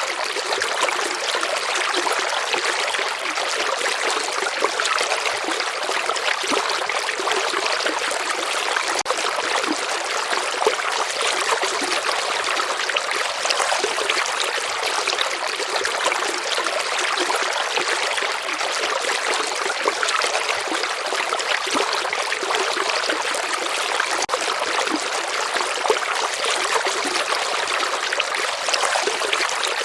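Steady flow of water in a stream or river, an even rushing with a light trickle and splash in it.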